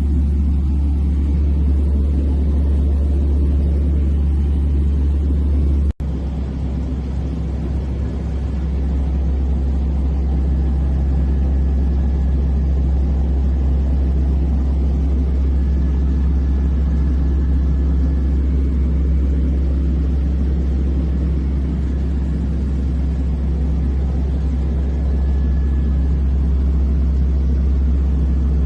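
Small airplane's engine and propeller droning steadily, heard from inside the cockpit. It cuts out for an instant about six seconds in and then carries on unchanged.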